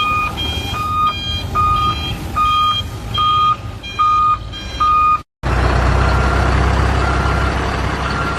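Toy truck's electronic reversing beeper, a high beep repeating about every 0.7 seconds. After a brief cut about five seconds in, the beeping goes on fainter over a steady rumble.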